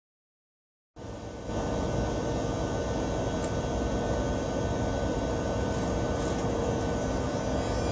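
Steady hum of a train at the station, with several held tones over a continuous running noise. It begins abruptly about a second in after silence and grows louder half a second later.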